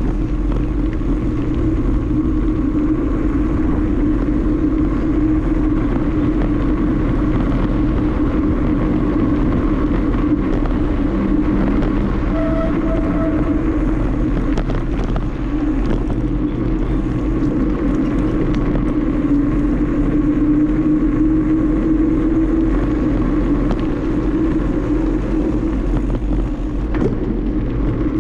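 Steady rushing and rumbling of riding a bicycle, mostly wind on the microphone with tyre noise.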